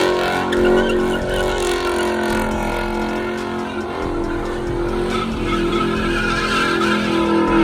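Car engine held at high revs while the rear tires spin and squeal in a burnout or slide.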